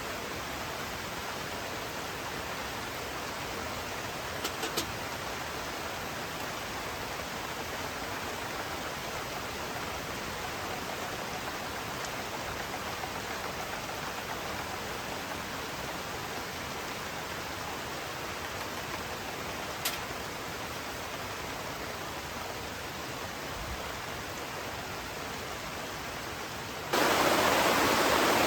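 Steady rushing of water, with a couple of faint ticks. About a second and a half before the end it abruptly becomes much louder.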